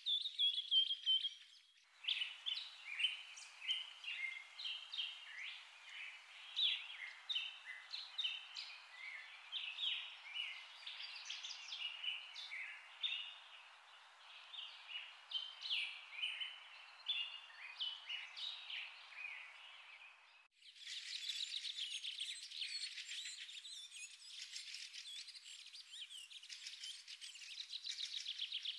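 Several birds chirping and singing in a dense chorus of short calls. The whole bird chorus changes abruptly to a different one about two seconds in and again about twenty seconds in.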